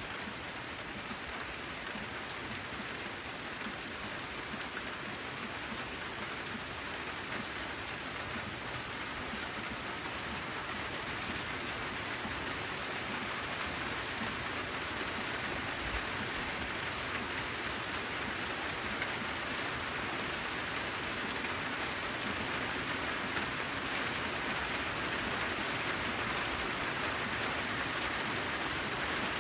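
Steady rain falling on a corrugated zinc roof, with drops ticking through a dense hiss; it grows slowly a little heavier.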